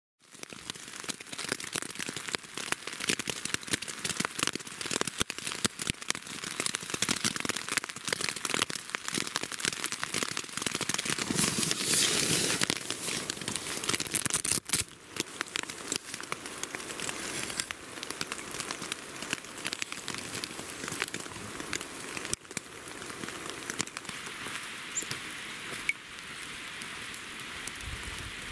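Rain pattering on a tent, heard from inside: a dense, irregular patter of drops. About halfway through it eases to a softer, more even rain hiss.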